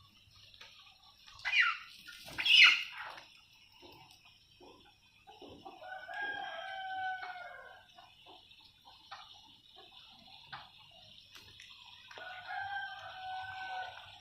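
Farmyard fowl calling: two short, loud calls falling in pitch, then a rooster crowing twice, each crow a long, level call lasting almost two seconds.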